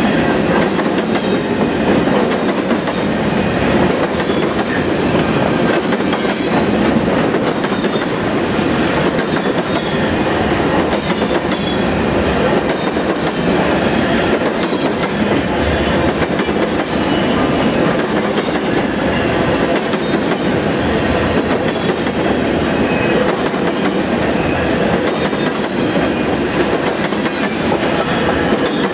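Covered grain hopper cars of a freight train rolling by, steel wheels clicking rhythmically over rail joints above a steady rumble.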